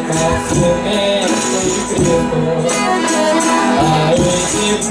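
Folia de Reis ensemble playing an instrumental passage between sung verses: sustained pitched instrument notes over a tambourine-like percussion beat.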